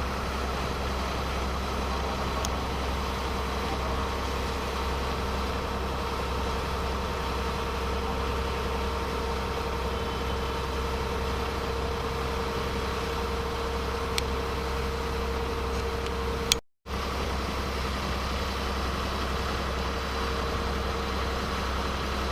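A boat's engine running with a steady, unchanging drone, heard from on board. The sound cuts out for a moment about three-quarters of the way through.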